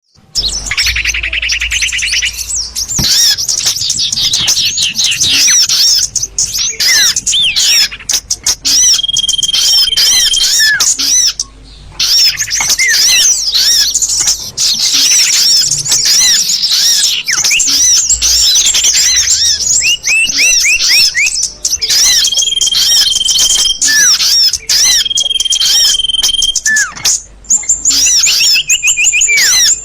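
Loud, dense mix of small-bird calls from a bird-lure recording played through a speaker: rapid high chirps and down-slurred notes, a buzzy trill at the start, and a few held whistles about a second long. The sound dips briefly about a third of the way in.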